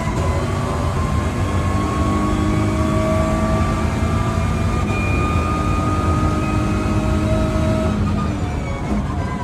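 Lotus Emira GT4's 3.5-litre supercharged V6 race engine running hard, its pitch climbing slowly and holding, then easing off near the end.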